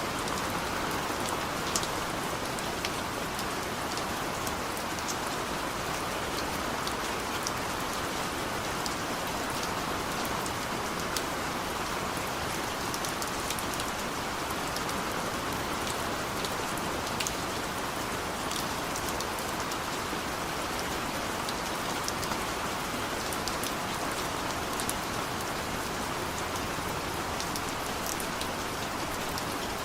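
Steady heavy rain falling, with a continuous hiss and scattered sharp drops pattering on surfaces.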